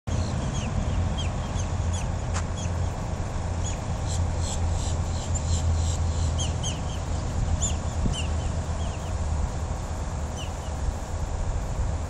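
A bird chirping: many short, hooked chirp notes repeated irregularly for most of the stretch, over a steady low rumble.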